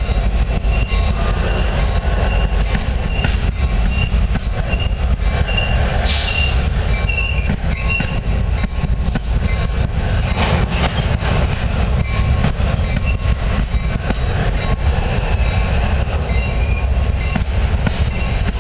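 CN freight train's covered hopper cars rolling past at close range: a steady heavy rumble and clatter of steel wheels on rail, with a brief high screech about six seconds in. A crossing bell dings about twice a second underneath.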